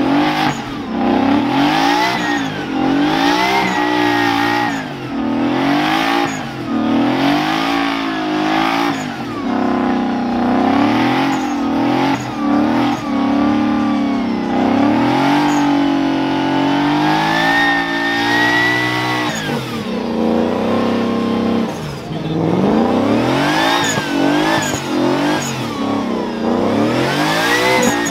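Pickup truck engine revved hard again and again during a burnout, its pitch climbing and falling every second or two, held high for several seconds in the middle and dropping back about two-thirds of the way through.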